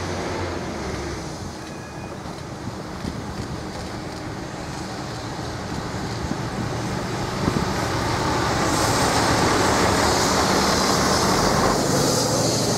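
A Network Rail Windhoff multi-purpose vehicle set approaching and passing close by: its diesel engine running under the wheel-on-rail noise. It grows louder from about halfway through and stays loud as the flat vehicles go past.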